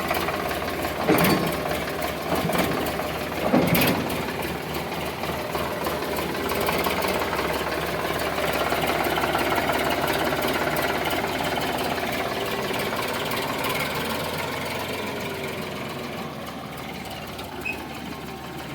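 Tractor diesel engine running with a steady knocking chug, with two sharp clunks in the first four seconds. The sound grows a little louder and then slowly fades toward the end.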